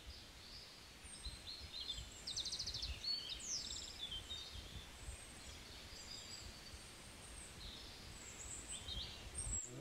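Small birds chirping and calling, high-pitched and scattered, with a quick trill of rapid notes about two and a half seconds in and another at three and a half, over a faint low rumble.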